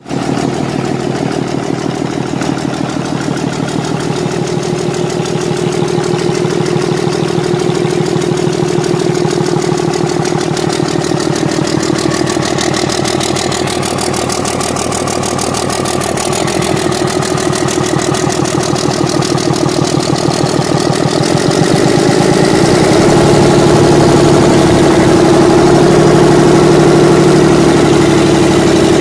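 Six-cylinder engine running steadily under test with an even, rapid firing pulse; it gets somewhat louder about 22 seconds in.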